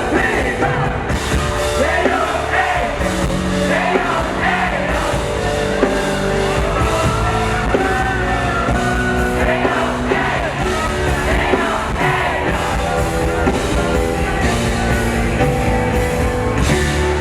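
Live band playing a rock song with singing, loud and continuous.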